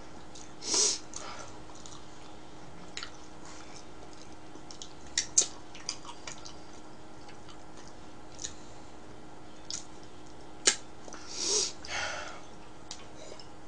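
A person chewing pizza: scattered soft mouth clicks and smacks, with a couple of short breathy swells, over a steady low hum.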